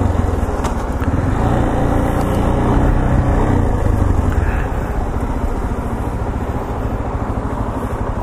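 Yamaha XTZ 250 Ténéré's single-cylinder engine running at low road speed as the motorcycle rolls slowly along. It gets a little louder partway through, then settles quieter and steady from about halfway.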